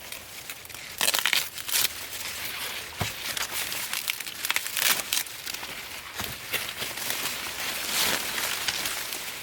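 Irregular rustling and crackling, in a run of short uneven bursts, as of something dry being handled.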